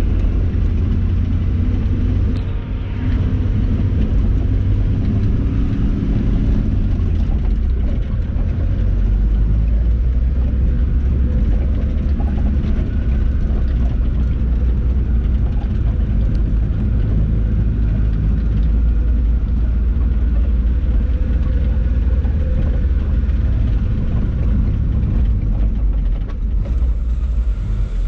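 Mitsubishi Canter truck's engine running under load on a steep uphill road, a steady deep rumble, with a short dip a couple of seconds in and a shift in its note about seven seconds in.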